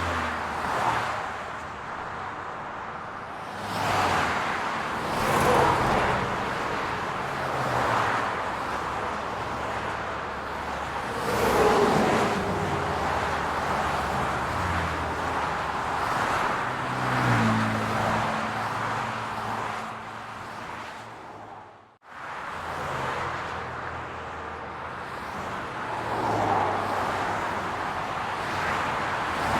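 City road traffic: cars passing by one after another over a steady low engine hum. The sound drops out abruptly for a moment about two thirds of the way through, then carries on.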